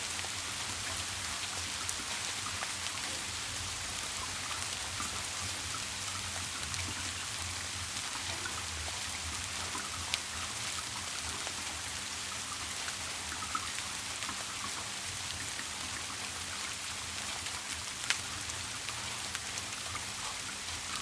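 Steady rain falling, an even hiss with scattered drip ticks, two sharper drops standing out about ten and eighteen seconds in.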